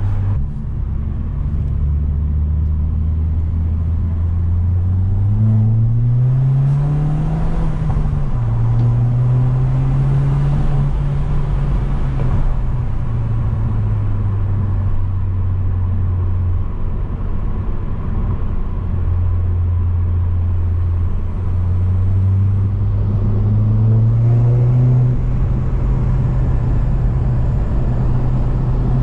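Alfa Romeo 159 TBi's turbocharged 1.8-litre four-cylinder with a full custom exhaust, heard from inside the cabin while driving. It runs steady at first, then the note rises under acceleration about five seconds in and drops sharply at an upshift. It pulls again, then settles back to a steady cruise. Later it climbs once more and holds at a higher pitch.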